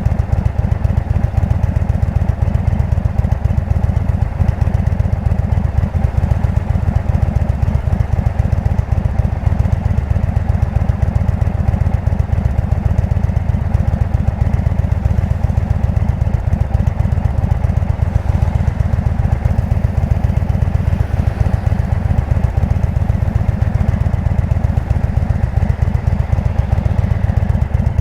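Indian V-twin motorcycle engine with a Jekill & Hyde aftermarket exhaust running steadily under way, a deep, fast-pulsing exhaust note.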